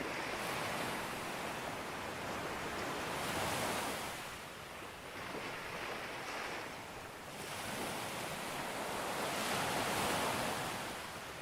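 Sea waves breaking and washing up on a beach, swelling and ebbing about every three seconds, loudest about ten seconds in.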